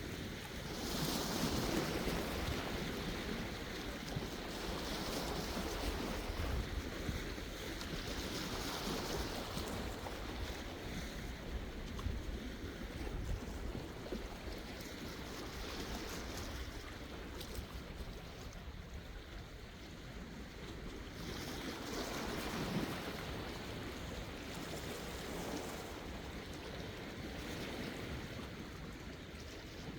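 Sea waves washing onto the shore, a steady rushing that swells and eases every few seconds.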